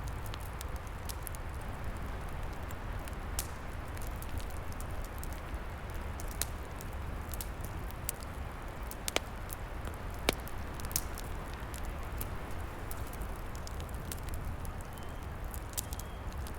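Outdoor wood fire crackling, with irregular sharp pops, the loudest two about nine and ten seconds in, over a steady low rushing noise.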